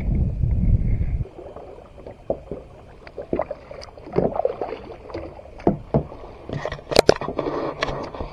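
Water sloshing and gurgling around a kayak, with several sharp knocks and clicks against the hull, the loudest near the end. A low rumble cuts off suddenly about a second in.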